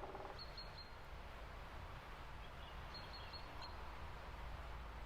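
Faint bird chirps: short high notes in quick groups of three or four, about half a second in and again around three seconds in, over steady low background noise.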